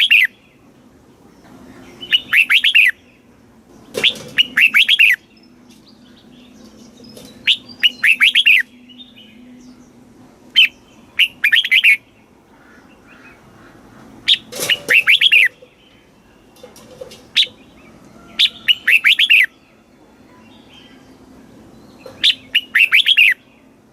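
Red-whiskered bulbul singing: short phrases of several quick, clear notes, repeated about every two seconds.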